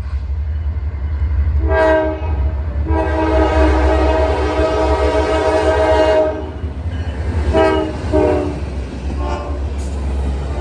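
Norfolk Southern 1067's diesel locomotive air horn sounds a short blast, then a long blast of about three seconds, then two short blasts close together, with a faint short one after. Under the horn runs the steady low rumble of the approaching train.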